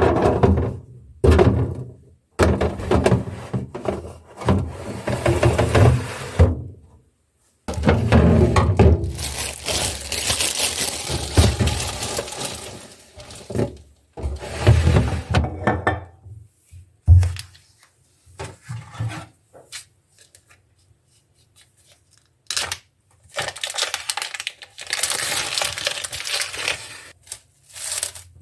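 Food packaging and plastic containers being handled while a refrigerator is organized: stretches of rustling and crinkling broken by knocks, with one sharp thud about seventeen seconds in, then quieter handling.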